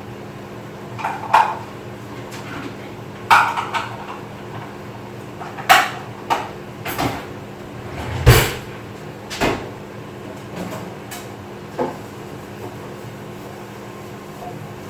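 Kitchen clatter: about ten separate knocks and clinks of dishes and cupboard doors being handled, the loudest about eight seconds in, over a steady low hum.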